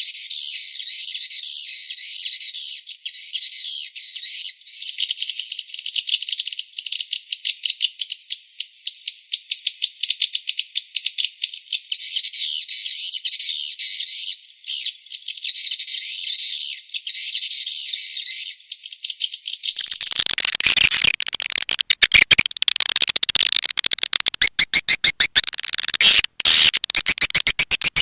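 Swiftlet call recording, the lure sound played in swiftlet houses: dense, high-pitched twittering chirps of swiftlets. About twenty seconds in, the track turns louder and fuller, with a fast run of sharp clicking chirps.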